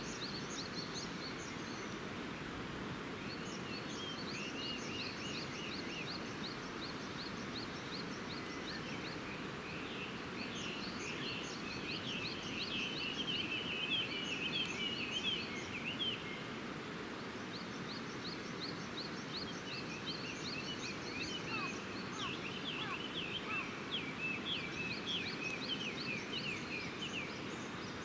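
Small birds singing outdoors in bouts of quick, repeated chirping notes, with the loudest bouts about halfway through and again near the end, over a steady low rushing background.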